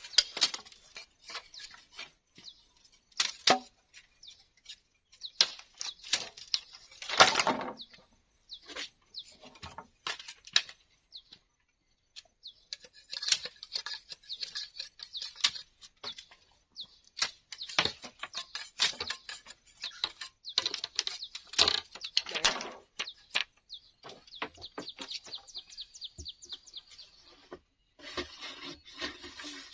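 Irregular taps, knocks and short scrapes from hand work on bamboo, with a run of quick rasping strokes near the end.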